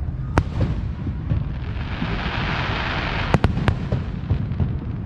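Fireworks going off: a sharp bang, then a crackling hiss that swells in the middle, followed by three quick cracks close together, over a steady low rumble.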